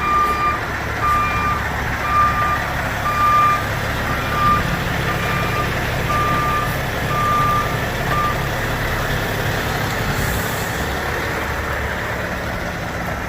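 Truck backup alarm beeping about twice a second, stopping about eight seconds in, over the steady low rumble of a diesel truck engine running.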